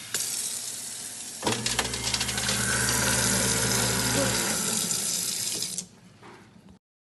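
Tap water running into a kitchen sink, with the garbage disposal's electric motor humming steadily under it for about three seconds from about a second and a half in. The water stops near the end.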